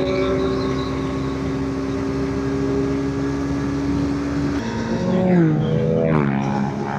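Motorcycle engine holding steady revs while riding, then about four and a half seconds in the revs drop away in a couple of falling steps, as when rolling off the throttle or shifting down.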